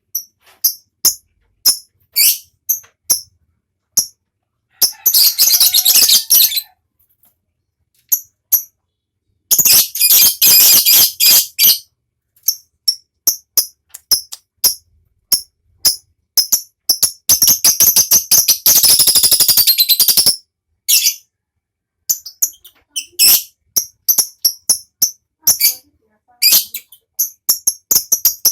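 Lovebird singing: short, sharp high chirps throughout, broken by three long, very fast chattering trills (the 'ngekek'), each lasting about two to three seconds.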